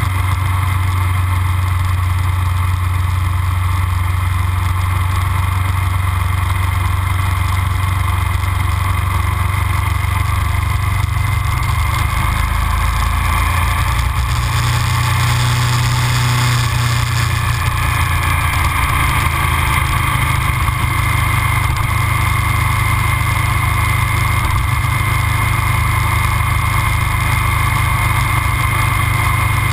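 Aprilia RSV Mille 1000 V-twin with Arrow aftermarket silencers running steadily while riding. The engine note rises a little near the middle, then settles again.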